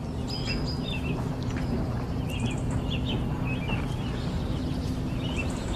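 Small birds chirping in short, scattered calls over a steady background of outdoor noise with a low hum.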